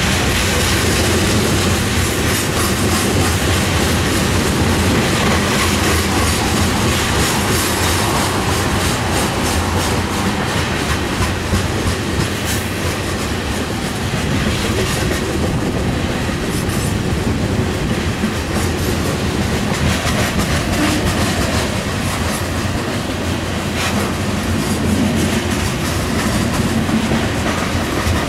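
Loaded cars of a Union Pacific coal train rolling steadily past: a continuous rumble of steel wheels on rail, with scattered clicks as the wheels cross rail joints.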